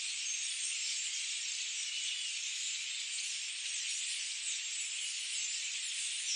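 Dense, steady forest chorus of many birds chirping over one another, a continuous high-pitched wall of overlapping calls with short chirps standing out on top.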